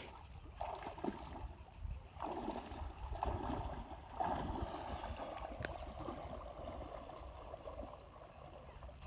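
River water flowing and gurgling over rocks, the river running high and brown after a flood. The rushing swells and eases unevenly over a low rumble.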